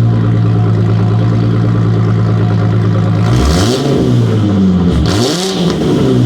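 2007 Ford Mustang's 4.0-litre V6 idling through its exhaust, then revved twice in quick blips about three seconds in, the pitch rising and falling each time, before settling back to a steady idle.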